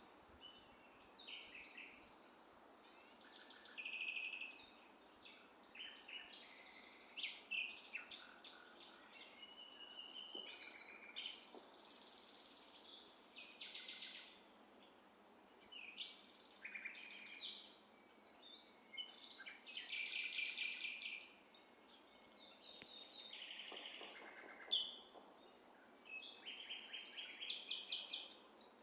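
Several wild birds singing at once, a continuous overlapping mix of chirps, rapid trills and high thin buzzy phrases.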